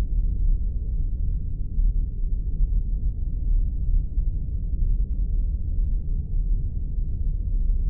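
Spaceship engine-room sound effect: a steady, deep drone of low noise with nothing high in it, unchanging throughout.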